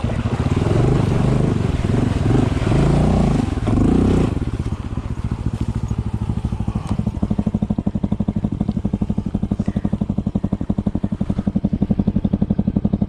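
Honda CT125's single-cylinder four-stroke engine pulling through mud for about four seconds, then dropping to a slow, even putt at low revs.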